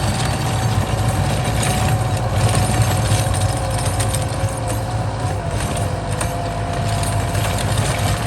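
Kubota M8540 tractor's four-cylinder diesel engine running steadily while pulling a plough, with a thin whine over the engine note that sinks slightly in pitch.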